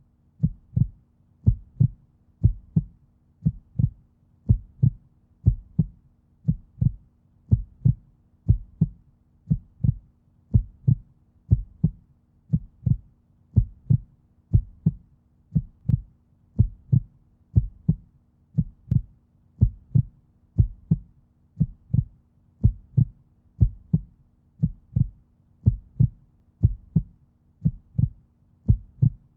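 A steady run of short, low thumps, about two a second, over a faint steady low hum.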